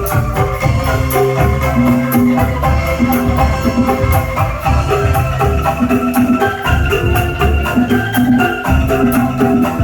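Angklung ensemble playing through a sound system during a sound check: short, repeated bamboo notes in a looping melodic pattern over a deep, pulsing bass, with a regular high rattle on top.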